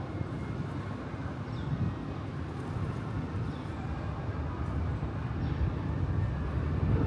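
Steady low rumble of city traffic, swelling near the end as if a heavier vehicle passes, with a few faint high chirps over it.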